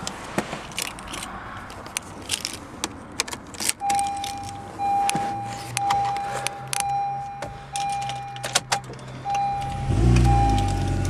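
Keys jangling and clicking in a 2010 Honda CR-Z's ignition, then a dashboard warning chime beeping steadily about once a second. About ten seconds in, the hybrid's 1.5-litre four-cylinder engine starts and runs.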